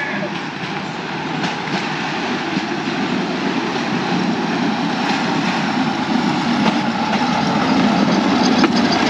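An oncoming bamboo train (norry) passing on the rail track, its small motor running and its wheels rattling over the rails, growing louder, with a few sharp clacks.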